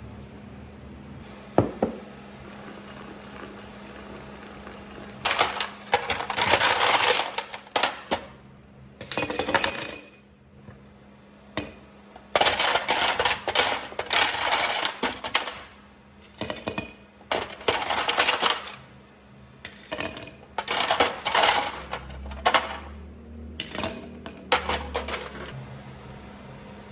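Small hard objects clinking and rattling in repeated bursts of one to three seconds, over a steady low hum.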